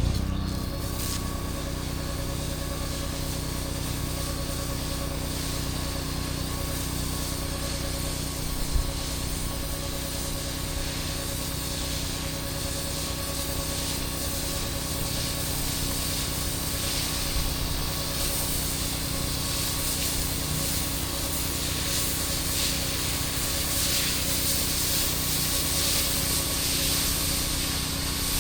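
Engine-driven pressure washer running at a steady speed while high-pressure water sprays with a hiss. There is a brief knock about nine seconds in.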